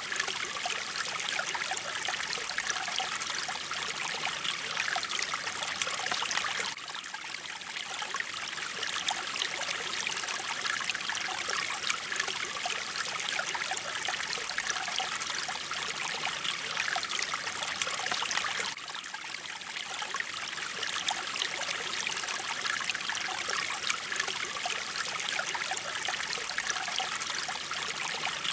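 Mountain water flowing in a stream, a steady, dense splashing and trickling. It dips briefly a little about seven and nineteen seconds in.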